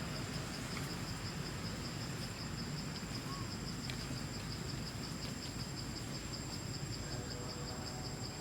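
Insect trilling steadily, a high-pitched fast even pulse with a second thin high tone above it, over a low background rumble.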